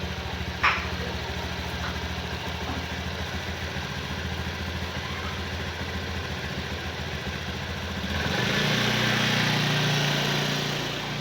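A small engine running steadily. About eight seconds in, its note rises and grows louder for a couple of seconds.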